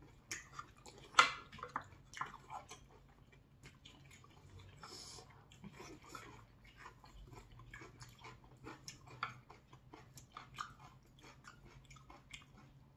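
Mouth sounds of eating noodles and fried rice: many small wet chewing clicks and smacks, with a louder one about a second in.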